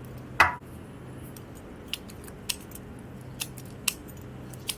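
Sharp little metallic clicks, five of them a second or less apart, from an ignition key and small metal parts being handled, with a louder short rasp about half a second in. A faint steady low hum runs underneath.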